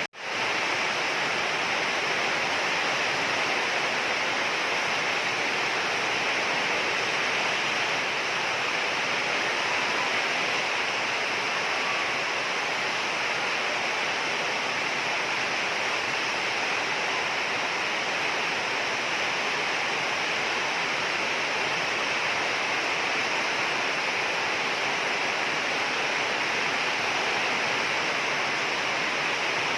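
Heavy rain falling, a steady, even hiss that does not change.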